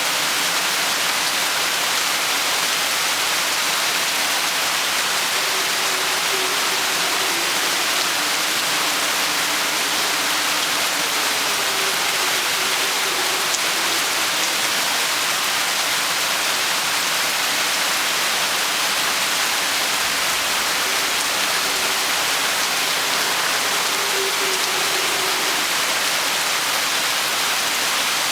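Rain storm falling steadily, a dense, even hiss of rain with no letup.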